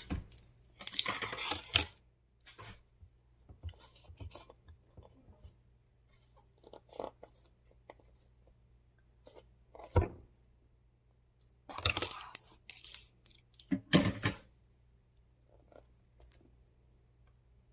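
Close handling noises: several short bursts of rustling or tearing, such as packaging being handled, with a single sharp knock about ten seconds in.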